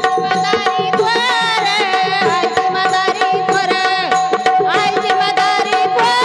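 Bhajan music: tabla strokes in a quick, steady rhythm under a continuously held drone note, with a wavering melody line entering about a second in.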